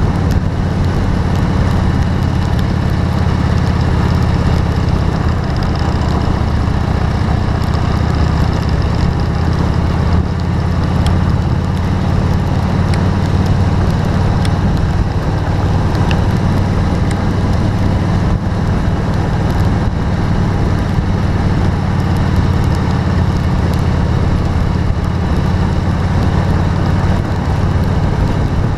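A motor vehicle running in rain: a steady low rumble with an even hiss over it and scattered faint ticks.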